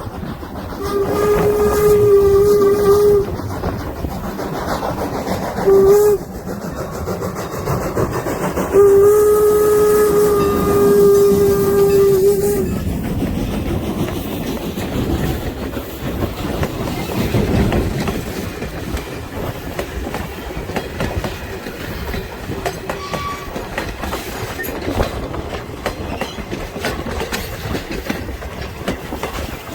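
N&W 475's steam whistle blowing a long blast, a short one and a long one, ending the long-long-short-long grade-crossing signal. Then the 4-8-0 steam locomotive and its train run on, wheels clicking over the rail joints.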